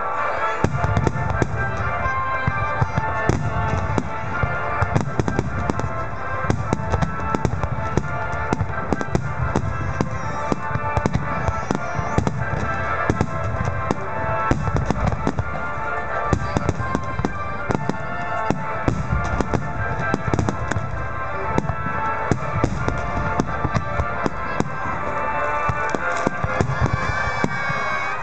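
Aerial fireworks of a large display bursting without pause: a dense run of sharp cracks and crackle over deep low booms, with music playing along under the bursts.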